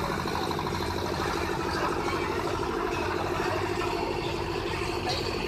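Vehicle engine idling steadily, with an even pulsing beat.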